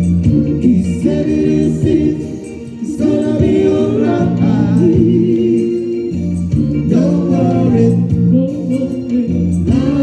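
Music with voices singing together in harmony over a steady accompaniment, in a gospel-like style.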